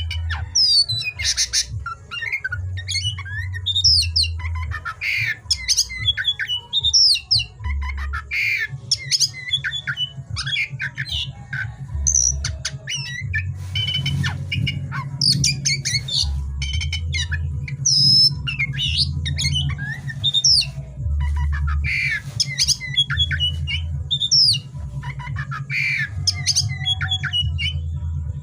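Oriental magpie-robin (kacer) singing continuously: a rapid, varied run of whistles, sweeping notes and harsh chattering calls, over a low hum.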